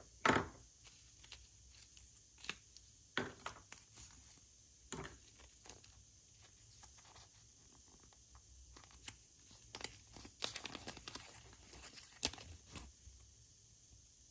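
Wrapping being torn open and crinkled by hand: irregular crackles and rustles, the loudest snap near the start and a busier run of crackling near the end.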